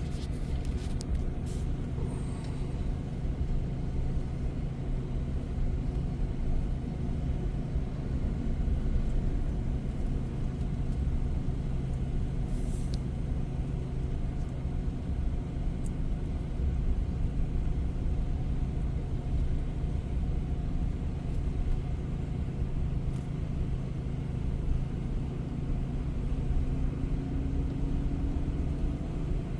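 Heavy-haul semi truck's diesel engine running steadily at crawling speed with a low hum and road rumble, a few brief clicks and a short hiss about a third of the way in. Near the end the engine note rises slightly.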